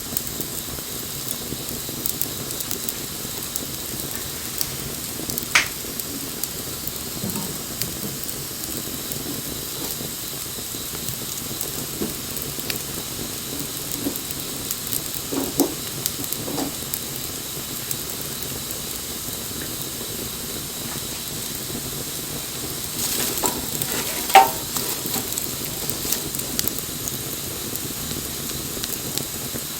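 Wood fire burning with a steady hiss and scattered crackles and pops, with a short cluster of louder pops about four-fifths of the way through.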